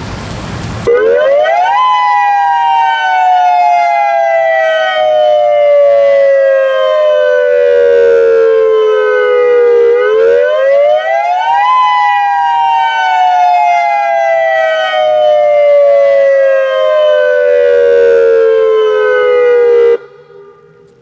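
Federal Signal Modulator 6024B electronic outdoor warning siren sounding its attack signal in a test: a loud tone that climbs quickly, then slides slowly down in pitch over about eight seconds, twice, and cuts off suddenly near the end.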